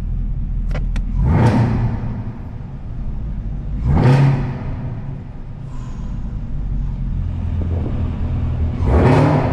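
Chevrolet Camaro ZL1's supercharged 6.2-litre V8 idling with a low rumble and blipped three times, each rev rising quickly and falling back to idle, in sport mode. The exhaust echoes off the concrete of a parking garage.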